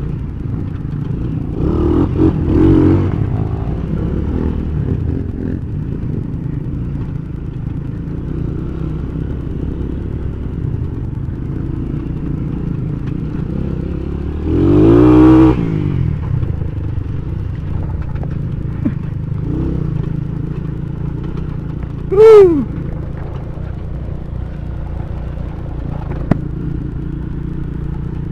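Honda Tiger motorcycle's single-cylinder engine running steadily over a rough dirt track, with the rattle of the ride. A louder pitched swell rises and falls about halfway through, and a shorter, sharp one comes about three-quarters of the way in.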